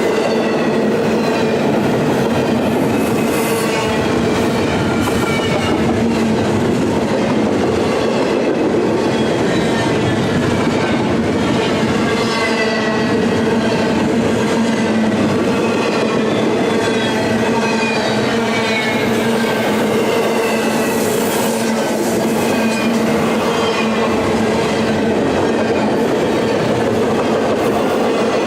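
A train's cars rolling steadily past on the rails, a continuous loud rumble of wheels on track. Through it come repeated high ringing tones that fall in pitch, about one every second or two.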